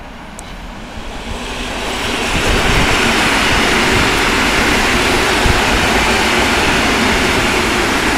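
SKM suburban electric multiple unit pulling out and rolling past on the rails, the wheel and running noise swelling over the first two seconds or so and then staying steady and loud.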